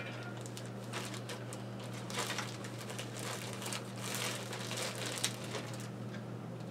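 Faint rustling and crinkling of items being handled, likely the tobacco pouch and tins being picked up, in short scattered bursts over a steady low electrical hum.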